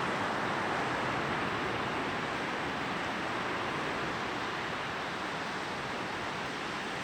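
Sea surf washing onto a beach: a steady, even rush of breaking water that eases slightly toward the end.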